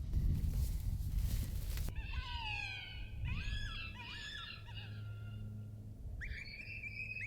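A rushing noise cuts off abruptly about two seconds in. Then an electronic predator call plays high-pitched animal cries that glide up and down several times, and from near the end one long high wavering call holds steady.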